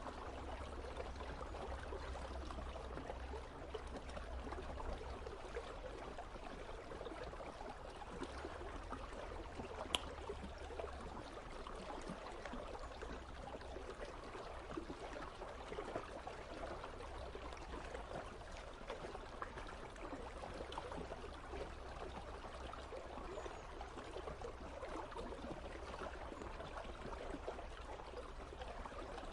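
A river flowing steadily, a continuous rush of water with trickling detail. A single sharp click about ten seconds in.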